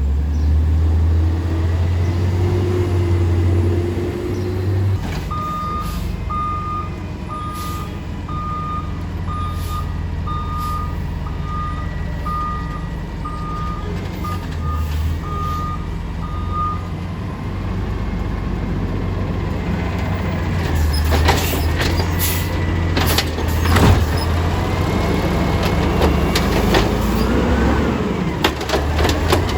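Small garbage truck's engine running, revving briefly at first. Then its backup alarm beeps about once a second for some eleven seconds, and in the last third there is a run of clanks and knocks.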